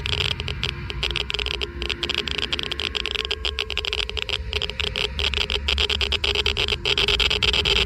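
Geiger counter clicking rapidly and at irregular intervals as it counts ionizing particles, over a steady low rumbling hiss.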